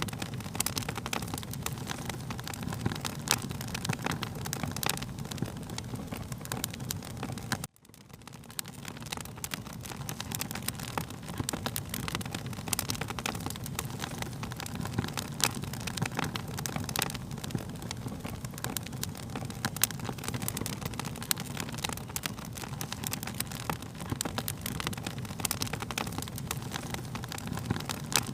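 Fire crackling, with a dense run of sharp pops and snaps over a steady low rush. About eight seconds in, the sound cuts out suddenly and fades back up over a couple of seconds.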